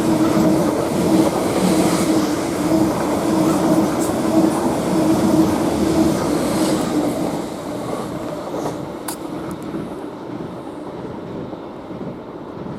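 Greater Anglia Class 745 electric multiple unit arriving: a steady hum over the rumble of wheels on the rails, dying away over the second half.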